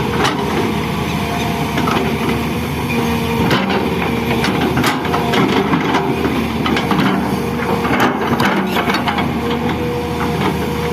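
Excavator engine running steadily, with scattered knocks and clatters of soil being dug and loaded.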